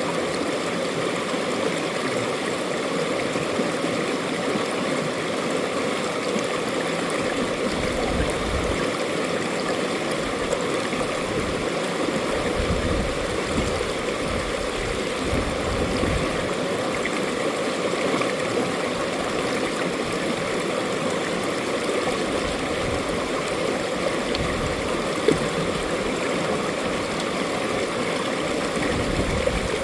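Mountain valley stream running over rocks: a steady, even rush of flowing water.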